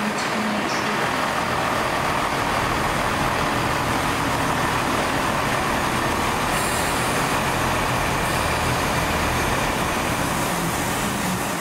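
A train running at the station with a steady, even rumble.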